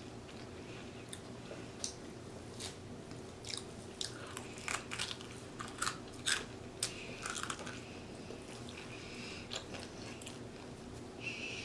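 Close-miked mouth sounds of a person chewing and eating meat picked off the bone by hand: irregular wet clicks and smacks, thickest in the middle, over a faint steady hum.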